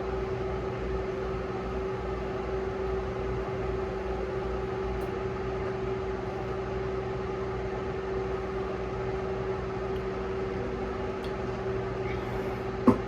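Steady mechanical hum with a constant low tone, like a fan or appliance motor running. A single short knock comes near the end.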